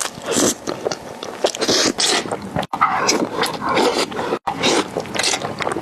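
Close-miked mukbang eating sounds: wet bites, chewing and mouth smacking on soft food and noodles, broken twice by abrupt cuts.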